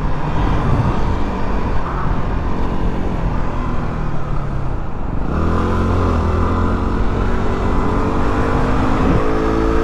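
Yamaha WR250R single-cylinder motorcycle engine running under wind and road noise; about five seconds in it gets louder and its pitch slowly rises as the bike accelerates.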